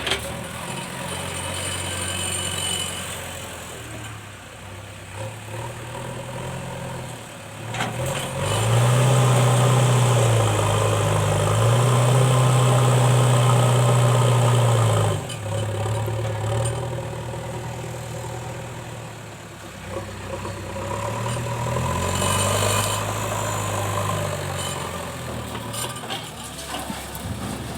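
JCB 3DX backhoe loader's diesel engine running, revving up hard under hydraulic load for several seconds about a third of the way in, with a brief dip, then revving up again more mildly later before settling back.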